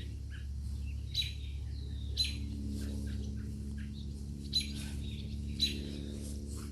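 A fledgling bird and its parent calling to each other with short, sharp chirps: four loud ones spaced one to two seconds apart, with fainter chirps between, over a steady low hum.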